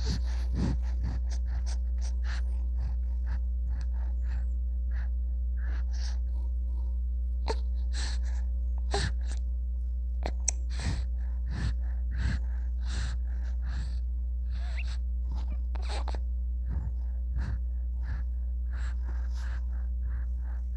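A baby's short, breathy gasps and little sounds, many in quick irregular succession, over a steady low hum.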